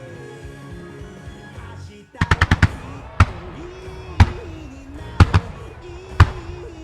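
Music starmine fireworks display: music plays, breaks briefly about two seconds in, then a quick volley of about five firework bursts is followed by single bursts roughly once a second while the music carries on underneath.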